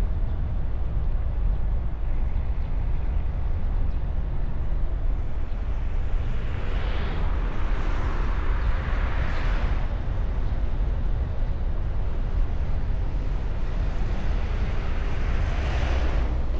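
Car driving on the road, heard from a bonnet-mounted camera behind a wind muff: steady low rumble of tyre, wind and engine noise. A rush of higher noise swells and fades from about six to ten seconds in, and again near the end.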